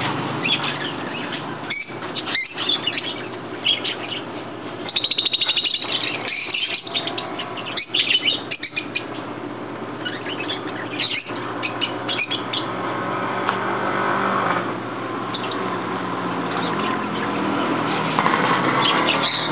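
Many birds chirping and calling at once, a busy, continuous chatter.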